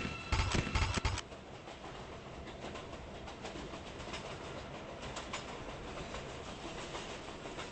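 New York City Subway train running: a loud rumble and rattle for about the first second, then a quieter, steady running noise with faint clicks.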